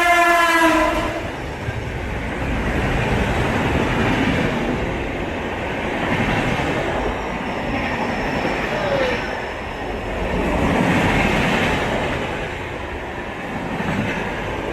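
Train horn blast cutting off about a second in, followed by the steady rumble and rattle of a passenger train running on the rails.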